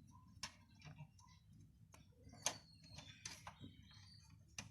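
Faint, scattered clicks and light scrapes of a stiff wire being worked into the gap of a locked front-loading washing machine door to release the door lock; the clearest click comes about halfway through.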